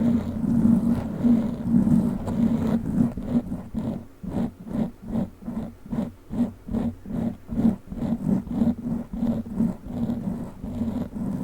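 Foam microphone cover being rubbed with a witch-finger prop, a muffled close-up rubbing. It is continuous at first, then turns into quick regular strokes, about three a second.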